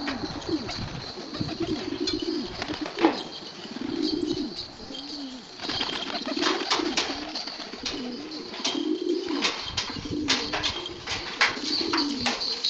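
Domestic pigeons cooing, a low rolling coo repeated every second or two, with many short sharp clicks among the birds.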